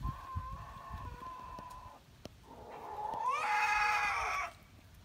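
Broody Faverolles hen giving two long, drawn-out calls. The second is louder, rising at its start and then held.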